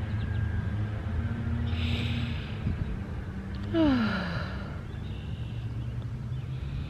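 A woman's deep breath in about two seconds in, then a sigh that falls in pitch about four seconds in, over a steady low hum.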